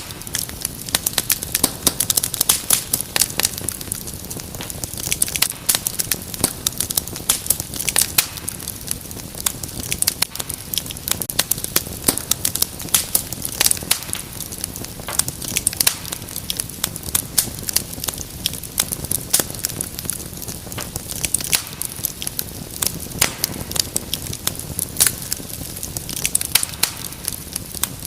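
Wood fire crackling in a fireplace: many sharp, irregular pops and snaps over a low, steady rumble of flame.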